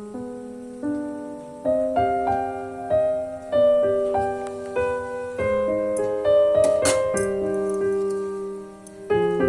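Background piano music: a slow, gentle melody of struck notes that ring and fade, with a brief lull just before the end.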